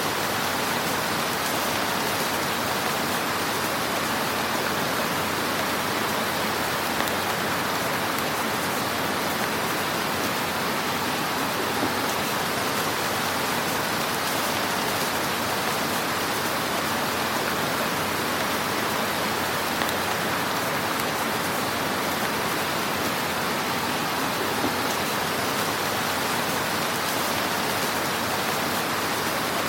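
Wood fire crackling in a fireplace: a steady, even hiss with a few small pops scattered through it.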